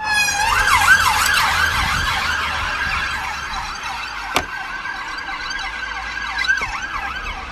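Emergency vehicle siren sounding in fast, overlapping rising-and-falling sweeps, starting abruptly. A sharp click comes about four and a half seconds in.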